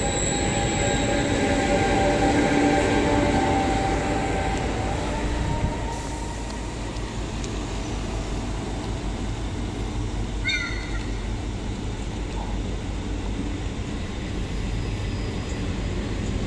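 Electric regional passenger train moving past: steady rumble of wheels on the rails, with an electric whine over the first few seconds that rises in pitch about five seconds in and then fades, and a brief wheel squeal about ten seconds in.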